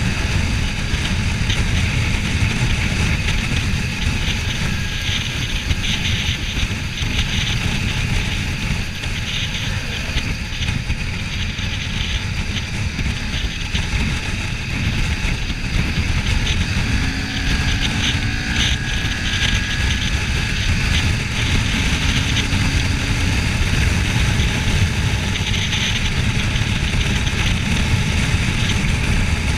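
Wind rushing and buffeting over the microphone of a Kawasaki Ninja 400 being ridden on the road, with the motorcycle's engine and tyre noise running steadily underneath.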